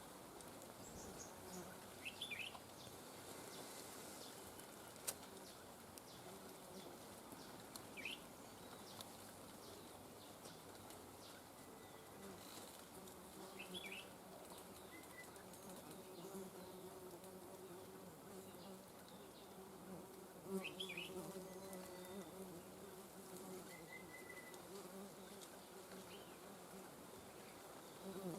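Four short, high bird chirps spaced several seconds apart, over a faint low buzzing hum that is strongest in the middle stretch.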